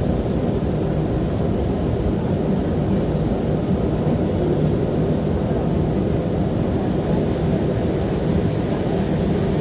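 Steady low rumble of a Boeing 737-300's CFM56 jet engines and airflow, heard inside the passenger cabin, unchanging in level.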